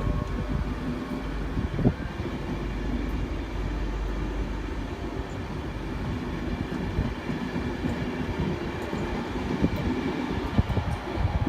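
A train running on the track: a steady rumble of wheels on rail with a few sharp knocks.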